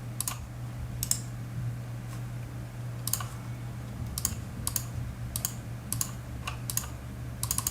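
Seagate Exos X22 22TB 7200 rpm hard drive working in a desktop PC during a self-to-self file copy: a steady low hum, with irregular sharp clicks about once or twice a second, some in quick pairs.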